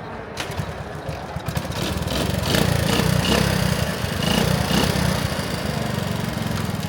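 1970 Honda CT70 minibike's small four-stroke single-cylinder engine running, getting louder about two seconds in.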